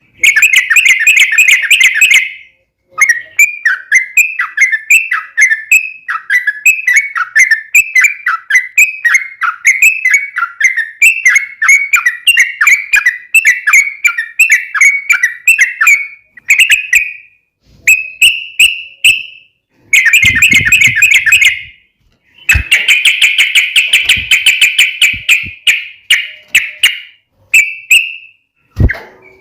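Yellow-vented bulbul (trucukan) singing: long runs of loud, quick chattering notes, about four or five a second, broken by a few short pauses.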